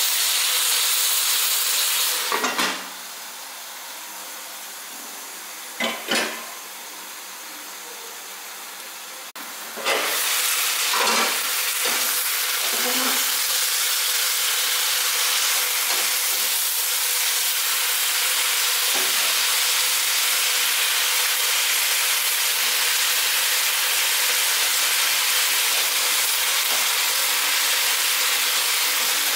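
Chicken and napa cabbage sizzling and hissing in an aluminium pot on a gas burner, with metal tongs knocking against the pot as the chicken is turned. The hiss falls away for several seconds near the start, then runs on steadily.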